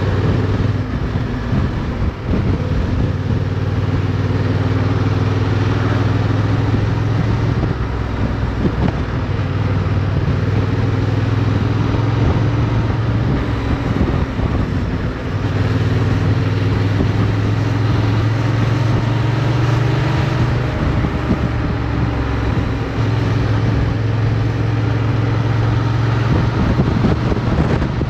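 Motorcycle engine running at steady riding revs, heard onboard with wind and road noise on the microphone. The engine note dips briefly several times along the way.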